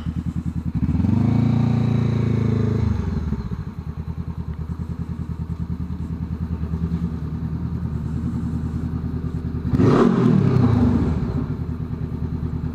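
Harley-Davidson V-twin running through a Coffman's exhaust with the baffle removed: a loping idle, revved up and held for about two seconds early on, then blipped sharply once more about ten seconds in before settling back to idle.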